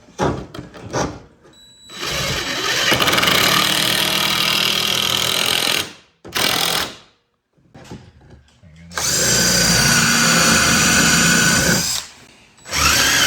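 Handheld electric power tool running under load in two long runs of about four and three seconds, with a short burst between them, working wood.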